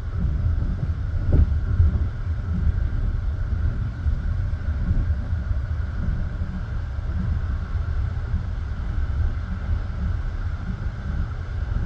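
Passenger train carriage running along the track: a steady rumble of wheels on rails, with occasional knocks from the wheels over rail joints, one clearer knock about a second and a half in.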